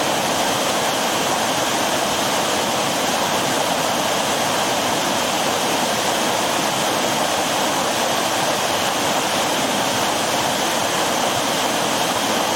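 River water rushing steadily over rocks below a waterfall.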